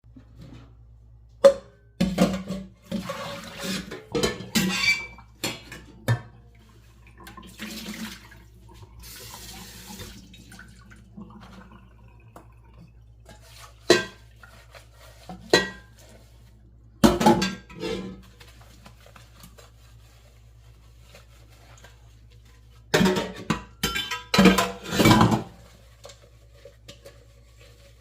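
Dishes being washed by hand at a sink: plates, cutlery and pots clatter and knock in bursts, and a tap runs briefly about a third of the way in.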